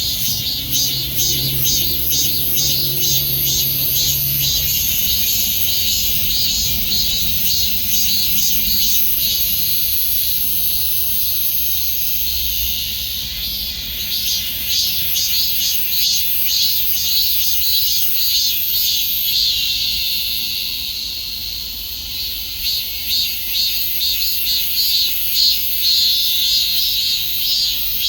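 Cicadas singing in chorus: a loud, high, pulsing buzz that dips slightly about twenty seconds in and then swells again.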